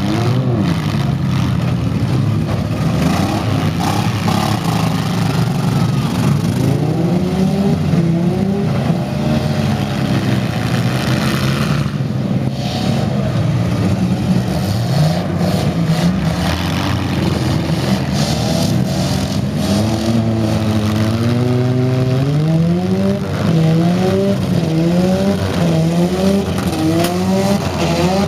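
Minivan and mini-truck engines in a demolition derby heat, revving hard, their pitch rising and falling over and over as the cars accelerate, with a few knocks from collisions.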